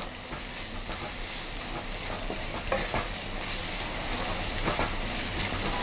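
Onions and tomatoes frying in oil in a non-stick kadai, sizzling steadily as a wooden spatula stirs the spice powders through them, with a few soft scrapes of the spatula against the pan.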